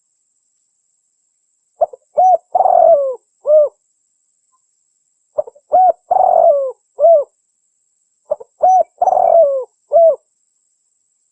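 Spotted dove (tekukur) cooing: three phrases about three and a half seconds apart. Each is two or three short coos, a longer coo that drops in pitch at its end, and a final short coo.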